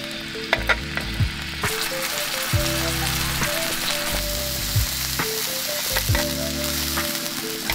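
Food sizzling as it fries in a pan over a small camp fire stove, the sizzle growing brighter about a second and a half in, with a few light clicks of utensils against the pan.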